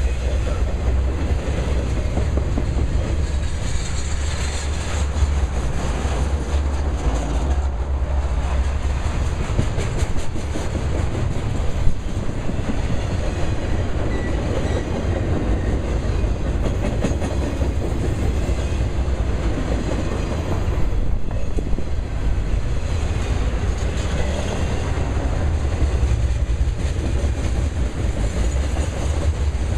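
Intermodal freight cars carrying highway trailers rolling past: a steady low rumble and rattle, with the clickety-clack of wheels over the rail joints and one sharper knock partway through.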